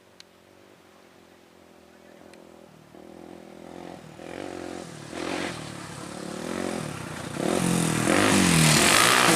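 Engine of an off-road racing vehicle approaching, growing from faint to loud, its revs rising and falling with throttle and gear changes as it nears.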